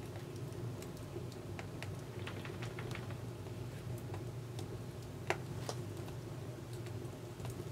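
Firewood burning in a Contura wood stove, crackling with irregular sharp pops and snaps over a steady low hum. There is a quick run of snaps about two to three seconds in, and one louder pop a little past five seconds.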